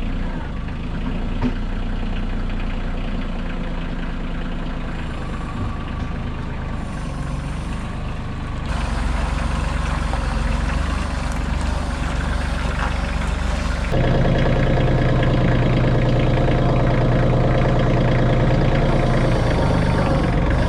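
Heavy machinery engine running steadily, mostly at idle, getting louder in two steps, about nine seconds in and again near fourteen seconds.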